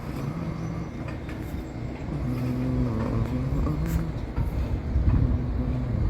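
An engine running, its pitch stepping up and down, over a low rumble that grows louder near the end, with a few light clicks.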